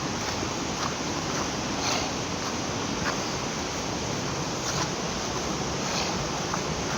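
Steady rushing of floodwater overflowing and running out of a drain.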